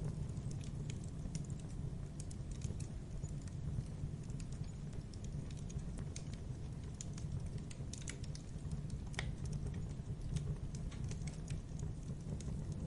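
Campfire burning: a steady low rumble of flames with irregular crackles and sharp pops of burning wood.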